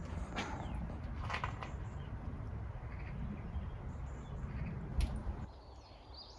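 Steady low rumble with a few sharp knocks, the loudest about five seconds in; the rumble drops away soon after, and a short high bird chirp follows near the end.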